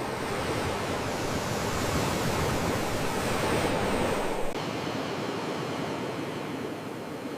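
Sea waves washing on the shore, a steady rushing surf that swells to a peak about four seconds in, then drops abruptly to a quieter, thinner wash.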